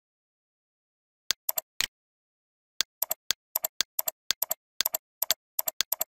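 Computer mouse clicks: three about a second in, then a quick, uneven run of sharp clicks, with dead silence between them.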